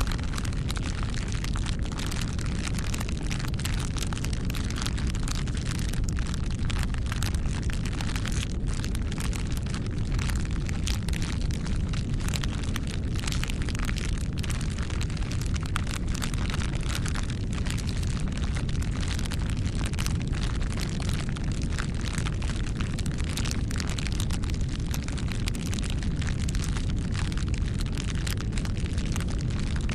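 Wood fire burning with a steady low rumble and dense, irregular crackles and pops.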